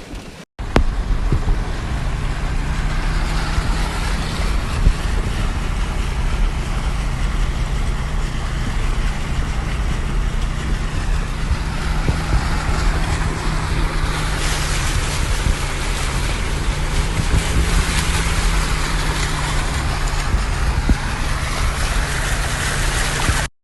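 Loud, steady rush of floodwater in a flowing wadi, with a steady low engine hum underneath. It starts abruptly about half a second in and cuts off just before the end.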